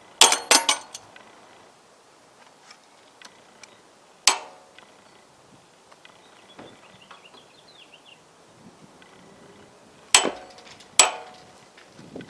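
Hand tools clinking and knocking on metal, each strike ringing briefly: a quick cluster of clanks near the start, a single knock about four seconds in, and two more near the end.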